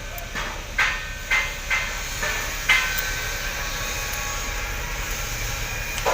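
Sharp metallic clicks of hand tools working a valve rocker-arm adjusting screw and locknut while the exhaust valve clearance is set, about six clicks in the first three seconds, then a steady background hiss.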